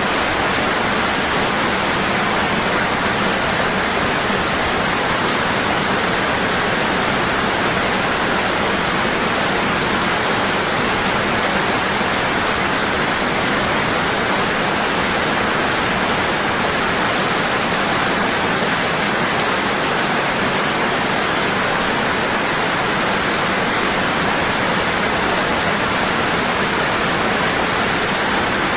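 Waterfall pouring strongly and steadily, a dense unbroken rush of falling water.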